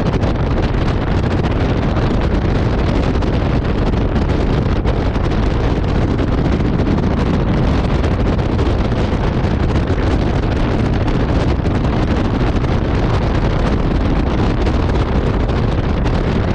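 Strong wind blowing across the microphone: a loud, steady rush of noise, heaviest in the low end, with no let-up.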